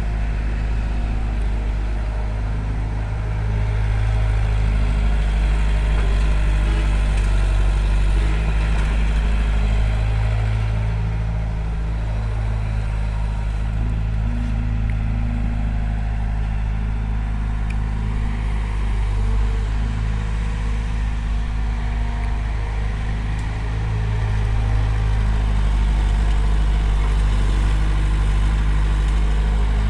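Heavy diesel machine engine running steadily with a deep low drone, swelling louder for several seconds twice as the load or throttle rises.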